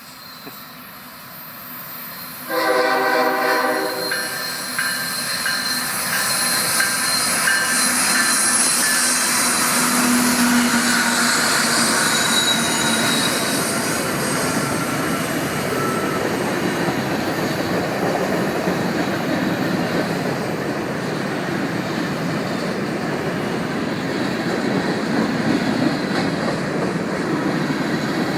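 Norfolk Southern freight train passing: a short horn blast about two and a half seconds in, then the steady noise of the train rolling by on the rails, with some high wheel squeal.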